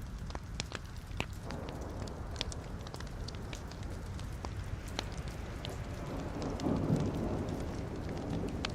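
Wood logs burning in a fireplace: irregular sharp crackles and pops over the low rumble of the flames, which swell louder for a moment about seven seconds in.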